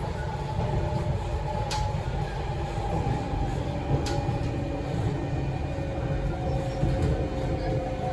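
Inside a Kawasaki–CRRC SiFang C151C metro car, the traction motor's echoey whine, several steady tones drifting slowly lower, over the rumble of the running gear. Two sharp clicks come about 2 and 4 seconds in.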